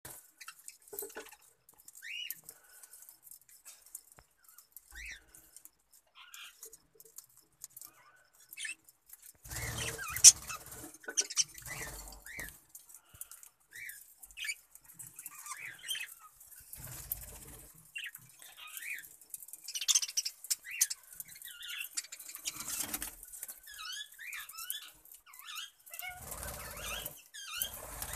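A colony of budgerigars chirping, with short rustling bursts and clicks. Sparse at first, it gets much busier about nine seconds in.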